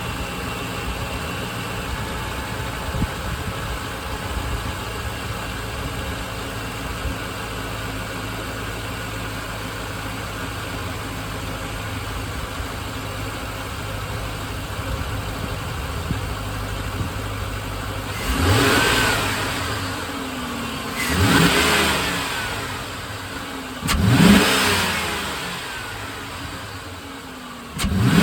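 2006 Chevy Silverado's 4.8-liter Vortec V8 idling steadily through its exhaust, then revved in three short blips a few seconds apart, each rising quickly and falling back to idle, with a fourth rev starting at the very end.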